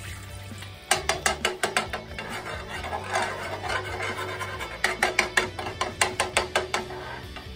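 Metal spoon knocking and scraping against a frying pan while stirring sauce, in two runs of rapid clicks, several a second, with a short ringing note from the pan under each run.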